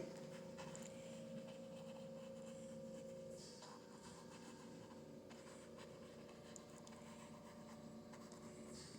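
Faint scratching of a paintbrush working acrylic paint on canvas, over a steady low hum.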